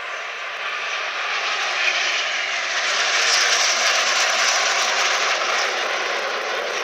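Alpha Jet turbofan jets flying past in a display, a loud rushing jet roar that swells to its peak about halfway through and then eases off.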